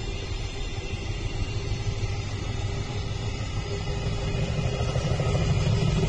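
Freight train running past: a steady heavy rumble with a held hum, growing louder near the end.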